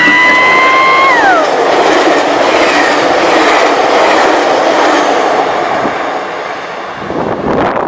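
A train passing close by. Its horn sounds a held chord that slides down in pitch about a second in as the train goes past. The steady rush of the train running along the rails follows and eases off near the end.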